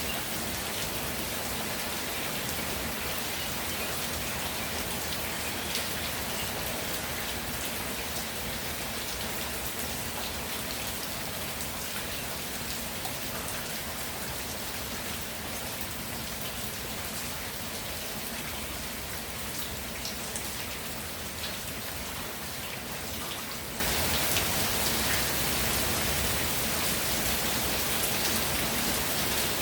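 Steady rainfall with scattered raindrops ticking. About three quarters of the way through, the rain abruptly becomes louder and brighter.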